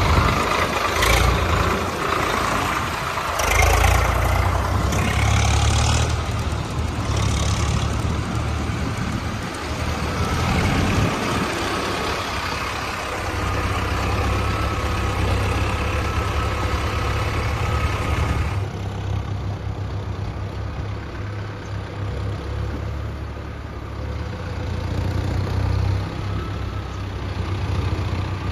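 Tractor engine running with a steady low hum. Some irregular noisier sounds come over it in the first half.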